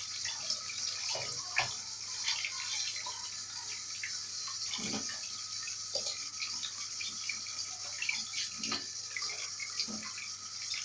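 Kitchen tap running into a sink while raw chicken is rinsed under it by hand, a steady hiss of water broken by scattered knocks and splashes.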